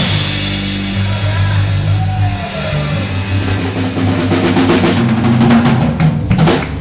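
Live band playing the instrumental ending of a gospel song: drum kit with a cymbal wash over held bass notes, breaking off in a couple of final hits near the end.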